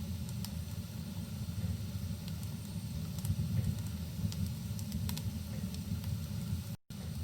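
Crackling wood fire mixed with rain: a steady low rumble and hiss with scattered sharp crackles and pops. The sound cuts out for an instant near the end.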